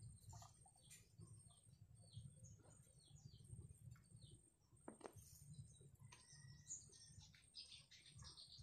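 Faint birdsong: scattered short chirps and calls from small birds, over a faint low rumble.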